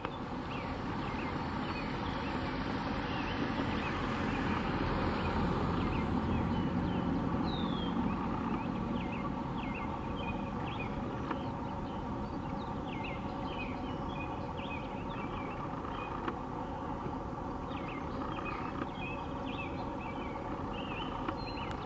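Small birds chirping over a steady jet-engine rumble. The rumble swells a few seconds in, then settles.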